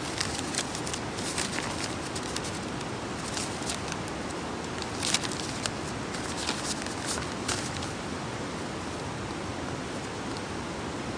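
Wood campfire crackling, with sharp irregular pops over a steady hiss; the pops die away about two-thirds of the way through, leaving only the hiss.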